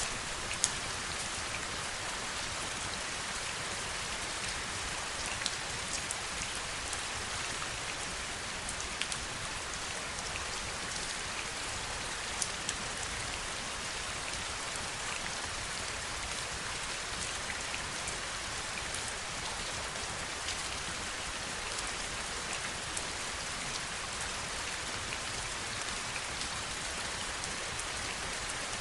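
Steady rainfall, an even hiss of many drops, with single louder drops ticking sharply now and then. The sharpest comes about half a second in, and a few more follow within the first dozen seconds.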